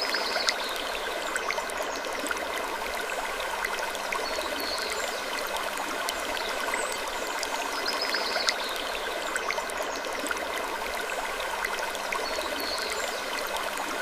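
Looped wood-creaking sleep ambience: a steady, even hiss with scattered small crackles and faint short high creaks recurring every few seconds.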